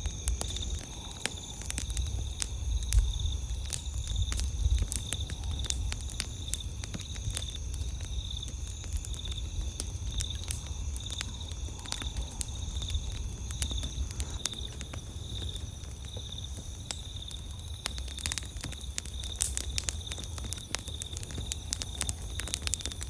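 Campfire crackling with irregular pops over a low rumble of burning, while insects keep up a steady high chirring.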